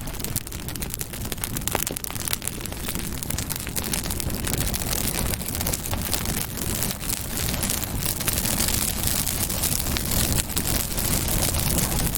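Campfire burning: a dense, steady run of crackles and pops over a low rumble of flames.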